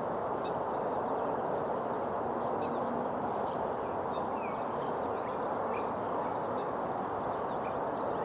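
Faint, short bird chirps scattered over a steady, louder rushing noise.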